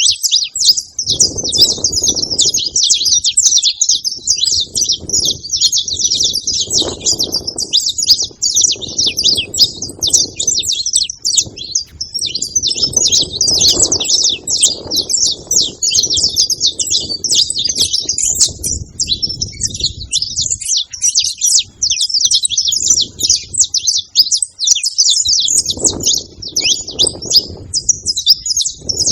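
A chorus of saffron finches singing continuously, fast overlapping high chirps and trills. Underneath, bursts of low rumbling noise come and go.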